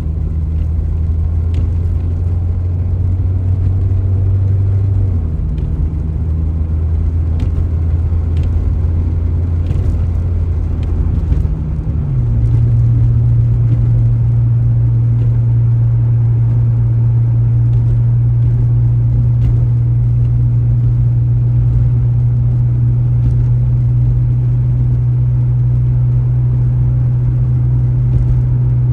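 Car engine and road noise heard from inside the vehicle: a steady low drone that shifts down in pitch about five seconds in and again about twelve seconds in.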